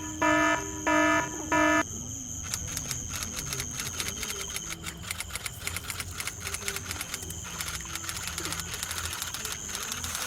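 Four electronic alarm-clock beeps in a row, each about half a second long, ending about two seconds in. They are followed by a steady high tone with rapid, dense ticking.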